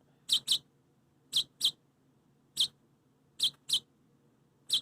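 Rescued baby bird chirping: eight short, sharp, high-pitched chirps at irregular intervals, some single and some in quick pairs.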